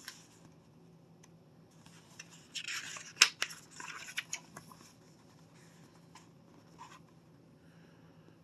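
A paper page of a picture book being turned and handled: a second or two of rustling and scraping with a few sharp clicks, starting about two and a half seconds in. A faint steady hum lies under it.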